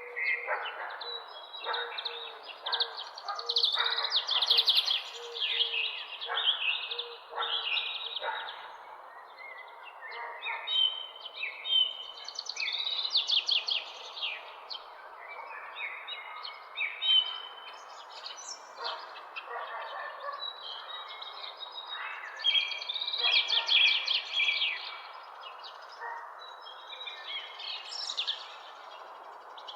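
Several birds chirping and singing in a dawn chorus, short chirps and quick trills overlapping one another throughout. During the first eight seconds a lower note repeats about twice a second beneath them.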